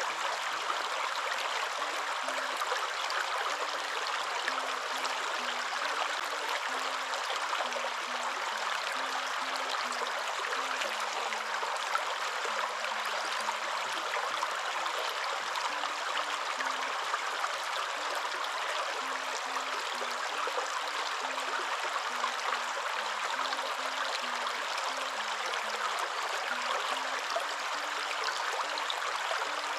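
Waterfall: a steady, even rush of falling water with no change. Faint low notes shifting in pitch sit underneath.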